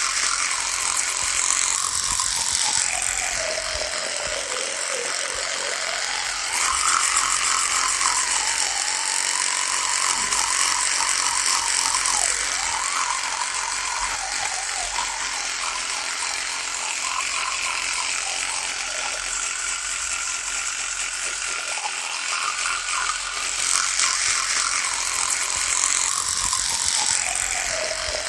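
Electric toothbrush running, a continuous buzzing rattle whose pitch sinks and rises again a couple of times.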